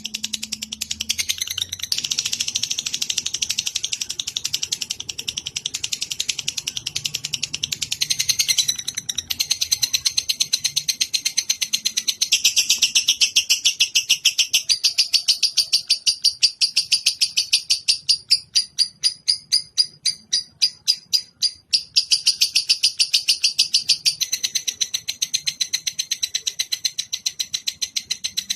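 A songbird's rapid, continuous chirping trill, high-pitched and fast-repeating, broken by a couple of brief pauses, as played in a bird-song training (masteran) recording.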